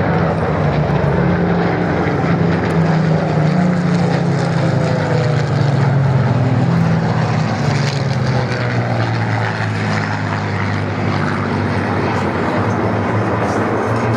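A formation of Supermarine Spitfires flying past, their V-12 piston engines running steadily, with a pitch that sinks slowly as they pass.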